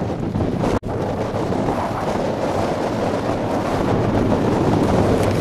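Wind buffeting the microphone: a loud, steady rushing rumble that breaks off for an instant just under a second in, then carries on.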